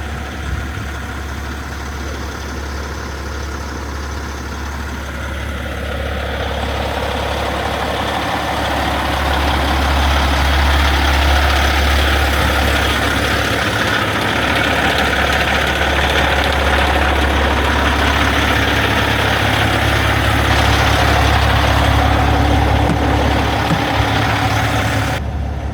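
Peterbilt semi truck's diesel engine idling steadily, getting louder about a third of the way in.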